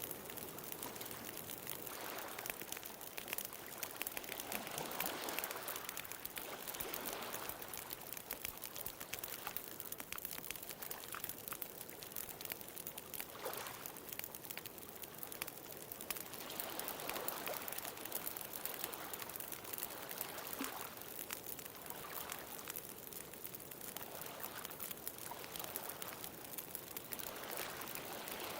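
Ocean waves washing in, swelling and fading every few seconds, with a bonfire crackling and giving off small scattered pops.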